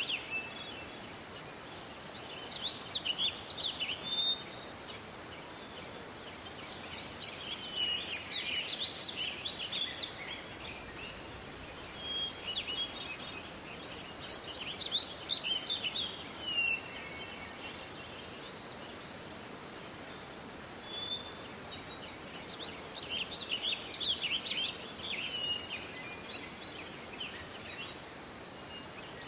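Songbirds singing: song phrases of a second or two, repeated every few seconds, with short whistled chirps between, over a steady low background hiss.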